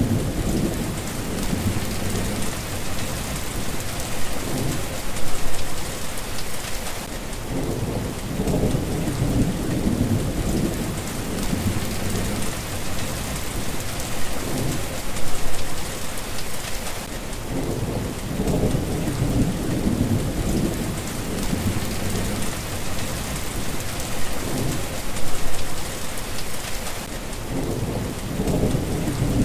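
Steady rain falling, with low thunder rumbles that swell and fade about every ten seconds.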